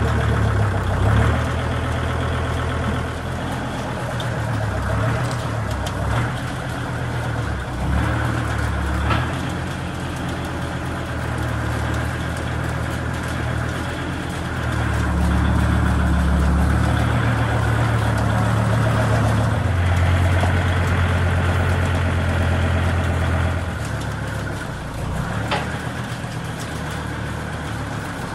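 Kubota L3750 diesel tractor engine running while moving round hay bales. Its pitch and level shift every few seconds as the throttle and load change, and a few sharp knocks sound at intervals.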